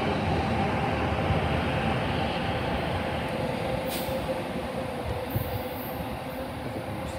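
NJ Transit train with ALP-45DP locomotive 4505 moving away along the track, its wheels rumbling on the rails and fading steadily, with a faint steady whine over the rumble.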